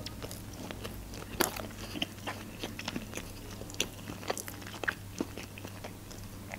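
A person chewing a mouthful of hot dog in a bun: irregular small clicks of chewing, scattered through, over a faint steady low hum.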